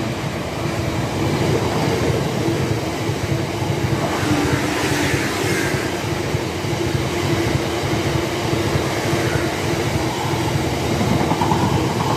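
A freight train's covered hopper wagons rolling past close by at speed: a steady loud rumble and rattle of steel wheels on the rails.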